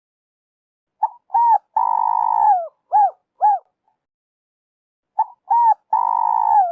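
A spotted dove sings its cooing phrase twice. Each phrase is a short note, then a rising-and-falling coo, then a long rough held coo that drops in pitch at the end, then two more short coos.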